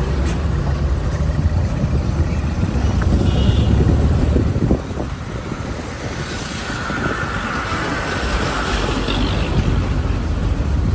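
Heavy vehicle engines running in slow, jammed traffic: a steady low rumble that eases off a little about five seconds in.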